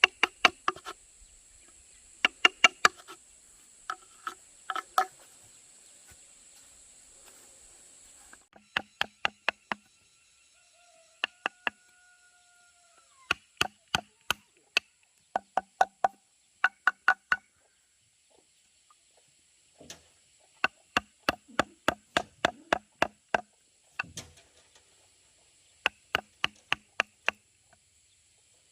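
Bamboo being struck with a tool in quick runs of three to eight blows, each blow a sharp knock with a short hollow ring, with pauses between runs. A steady insect drone in the background fades about eight seconds in.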